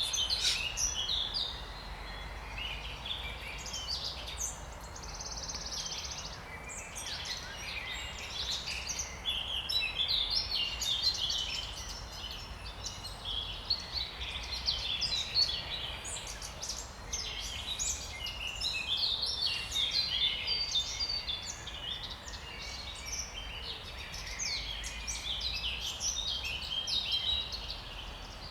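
Spring songbird chorus: several birds singing at once, with overlapping rapid chirps and trills and a short buzzy trill about five seconds in.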